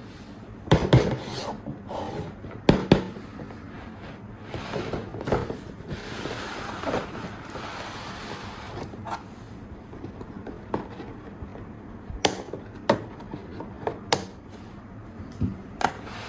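Toys being handled: scattered sharp clicks and knocks, with a few seconds of rubbing in the middle.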